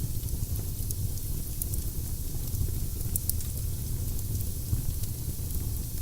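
Wood fire burning in a fireplace: a steady low rumble of the flames and a soft hiss, with scattered sharp crackles and pops of the burning logs.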